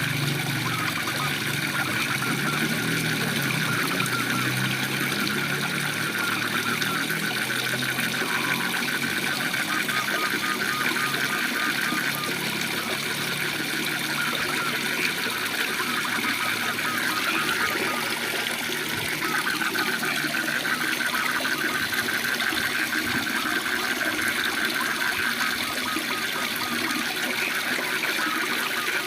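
Waterfall rushing steadily, with a continuous fast trilling chorus of frogs over it. A lower pulsing call is heard during the first dozen seconds and then fades out.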